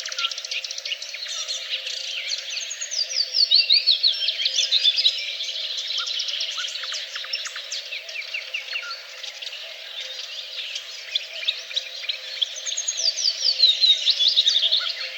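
Several songbirds singing and chirping together, with a quick series of notes falling in pitch about three seconds in and again near the end.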